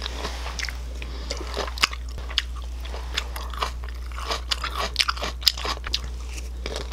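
Close-up mouth sounds of chewing grilled makchang (intestine), with many small crisp crunches in quick succession over a low steady hum.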